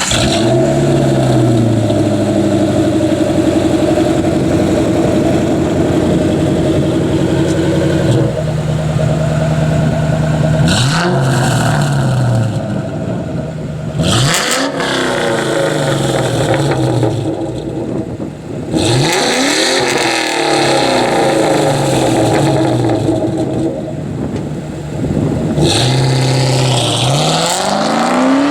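Ford Mustang 4.6-litre V8 exhaust note, the engine pitch rising sharply and falling back again several times as the engine is revved and let off.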